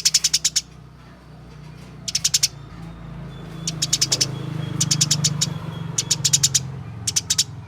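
Eurasian tree sparrows giving fighting calls: about six short bursts of rapid chirps in quick succession, over a low steady hum.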